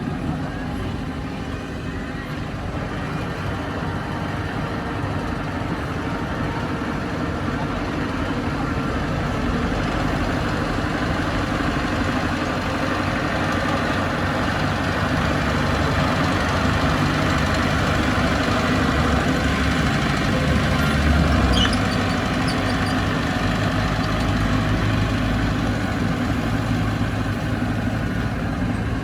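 Diesel engine of heavy earthmoving machinery running steadily, growing slightly louder with a brief peak about three-quarters of the way through.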